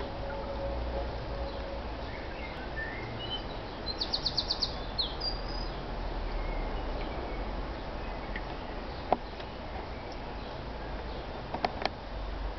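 Outdoor background noise with a low steady rumble and small birds chirping, including a quick trill of about six notes about four seconds in. A sharp click about nine seconds in and two more near the end.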